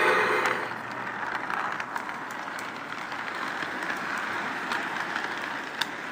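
O gauge model train running along its track, heard from a car riding on it: a steady whirring rattle with a few faint clicks. The tail of the locomotive's whistle sound effect fades out at the very start.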